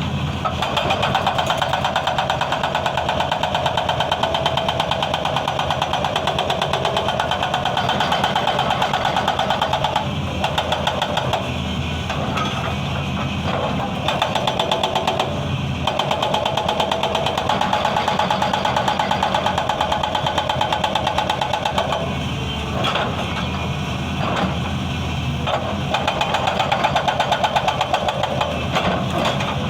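Excavator-mounted hydraulic breaker hammering stone in a rapid, steady stream of blows over the excavator's diesel engine. The hammering pauses briefly a few times.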